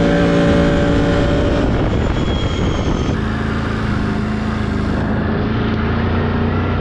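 Can-Am 850 ATV's V-twin engine running steadily at high revs, easing off about one and a half seconds in, then settling into a lower steady drone from about three seconds in.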